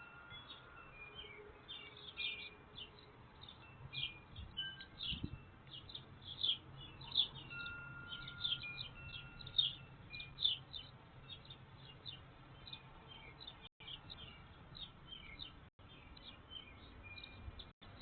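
Wild birds chirping in a busy, overlapping stream of short, quick notes, with an occasional held whistled note. The sound cuts out for an instant three times near the end.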